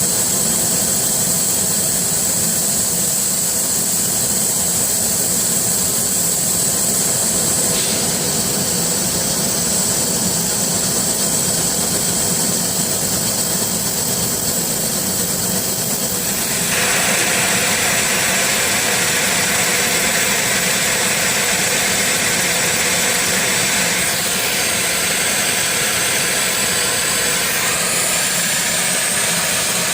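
Fiber laser machine running as it cuts a hole in a mirror: a steady machine whir with a constant high whine. About 17 seconds in the sound gets louder and brighter, and it shifts in tone a few more times.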